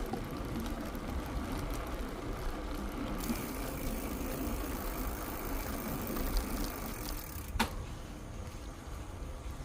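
Bicycle riding along a trail: a steady low rumble of tyres and wind on the microphone, with a single sharp click a little past seven seconds in.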